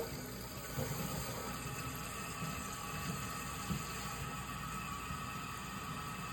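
Toilet tank refilling through a newly fitted fill valve after the water supply is turned back on: a steady hiss of water running in, with a faint whistle from the valve.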